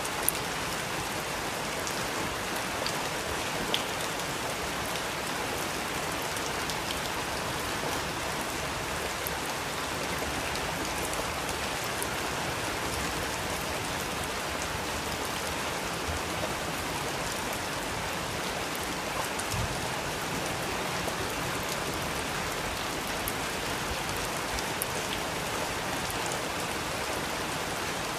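Steady rainfall, a dense even hiss of rain on surfaces with scattered individual drops ticking sharply.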